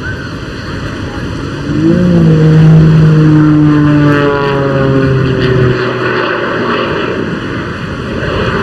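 Jet-powered Pitts Special aerobatic biplane flying past, with its Lycoming O-540 piston engine and propeller running under the rush of its twin ATM Lynx jet turbines. The propeller drone swells about two seconds in and falls in pitch as the aircraft passes.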